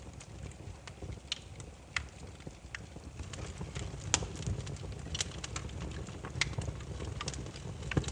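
Burning firewood crackling: irregular sharp pops and snaps, a few louder than the rest, over a low steady rumble of the fire.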